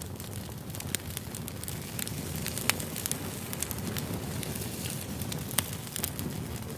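Campfire burning: a steady low rush of flame with frequent sharp crackles and pops. A couple of louder pops come about a third of the way in and again past the middle.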